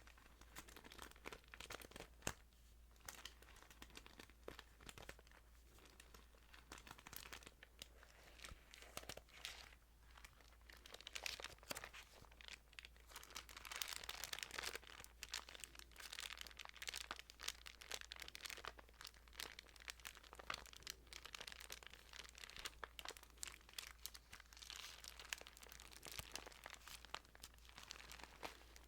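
Thin Bible pages being handled, crinkling and rustling with many small crisp clicks, soft and continuous.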